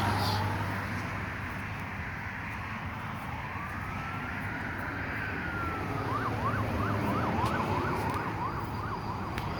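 Faint emergency-vehicle siren over steady roadside traffic noise: a slow wail from about three and a half seconds in, switching near six seconds to a fast yelp of about three sweeps a second.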